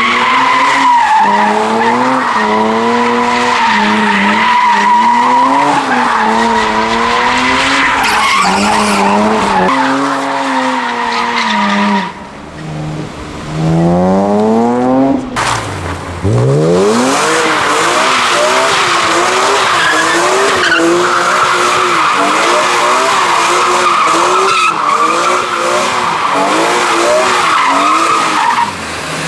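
A car drifting: the engine is held high in the revs, wavering up and down, over a steady tyre squeal. About twelve seconds in, the squeal drops away and the engine climbs in one long rising rev, then the drifting and tyre squeal pick up again.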